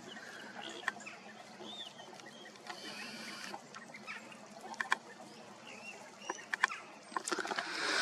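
Birds calling now and then: short, scattered chirps over a faint steady background, with several sharp clicks bunched mostly in the last few seconds.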